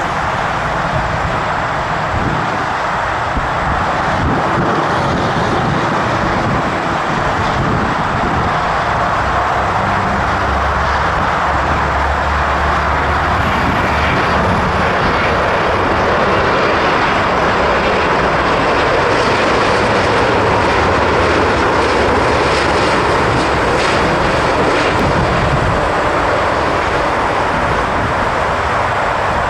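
Jet airliner engines, a loud steady noise that swells a little midway.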